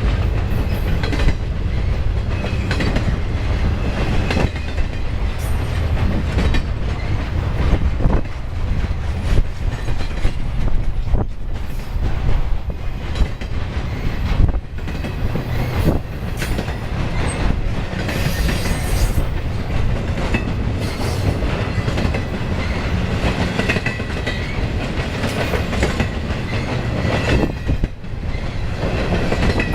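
Freight cars of a long intermodal train rolling past at track speed: a steady heavy rolling noise with irregular clacks of wheels over rail joints.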